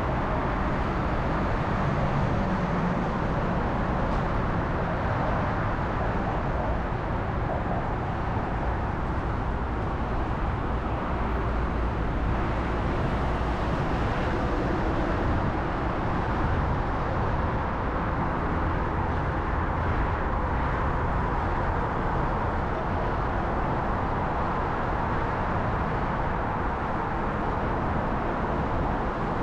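Steady city traffic and road noise heard from a moving bicycle: an even noise with no distinct events.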